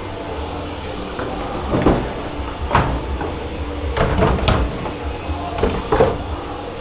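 Kitchenware knocking and clattering in a commercial dish pit: several separate knocks a second or so apart, the loudest about two, three, four and six seconds in, over a steady hum of kitchen machinery.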